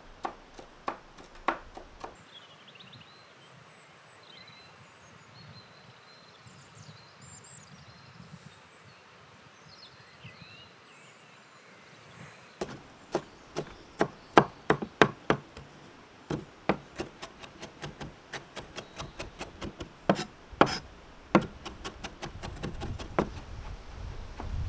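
Repeated chopping strokes, two to three a second, in a steady run from about halfway to the end, after a few single knocks in the first two seconds.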